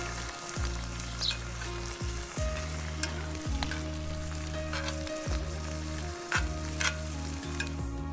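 Shrimp sizzling and frying in a pot of soy-butter sauce as they are stirred, with a few light clinks of the utensil. Background music with low sustained notes plays underneath.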